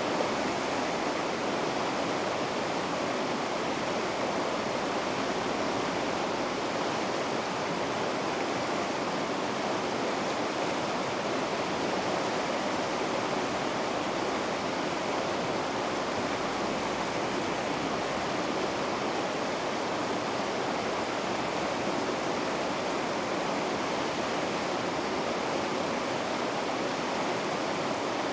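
River rapids rushing steadily: a continuous, even roar of white water that does not change.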